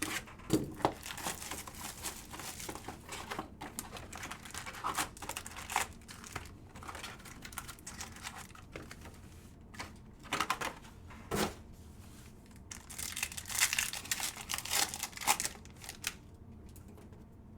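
Optic football card pack wrappers being torn open and crinkled by hand: irregular crackling and rustling with sharp tearing snaps, busiest about thirteen to fifteen seconds in.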